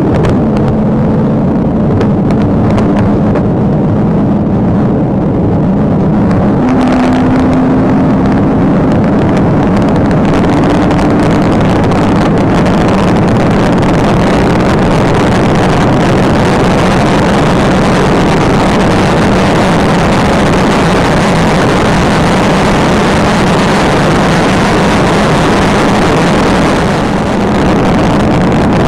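Police patrol car driving at high speed in a pursuit: loud, steady engine, tyre and wind noise with a constant low drone.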